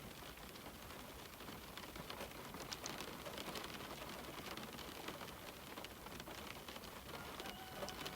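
Steady rain on a window, a soft hiss dotted with many small drop ticks. A faint steady high tone comes in near the end.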